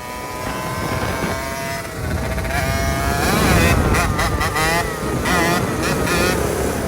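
Small motorcycle engine running, then revving up and down repeatedly from about two and a half seconds in.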